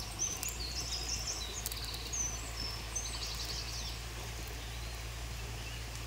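Birds chirping in short high notes and trills over a steady low rumble; the chirps thin out after about three seconds.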